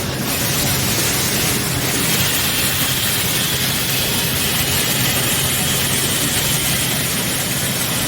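HOMAG Optimat BOF 311 CNC woodworking machining center running, a steady loud noise over a low hum, with a faint high whine coming in about two seconds in.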